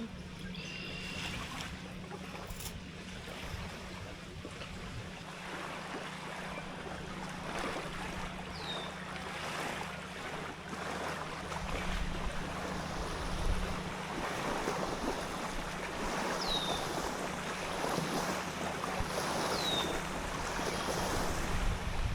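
Rainstorm outdoors: steady wind and water noise that swells and eases in gusts, with a few short, falling high chirps.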